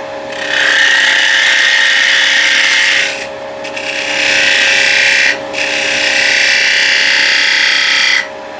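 Spindle gouge cutting into wood spinning on a lathe, shaping a curve. There are three long cutting passes, the first and last the longest, each a steady shaving hiss with short pauses between them. The lathe's steady hum runs underneath.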